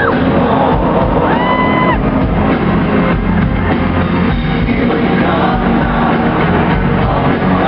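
Live pop-rock band playing with drums and singing, with crowd voices mixed in.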